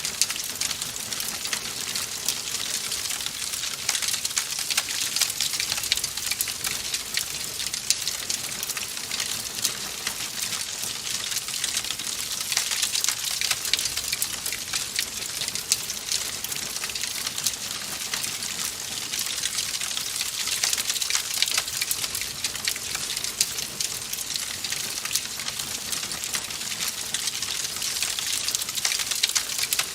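Wood fire crackling in a fireplace: a steady hiss under dense, irregular small pops and snaps.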